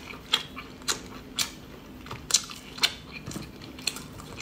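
Close-miked mouth chewing: a run of sharp, wet smacking clicks, about two a second.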